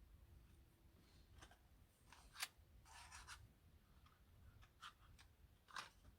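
Near silence broken by a few faint, short clicks and scrapes, the sharpest about two and a half seconds in and a brief scrape around three seconds in.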